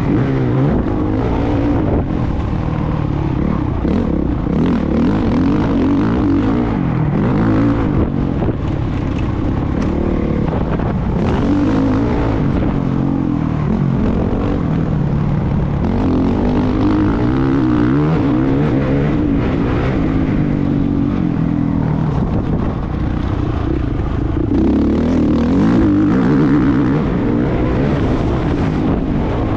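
Motocross motorcycle engine being ridden hard, its pitch rising and falling over and over as the throttle opens and closes.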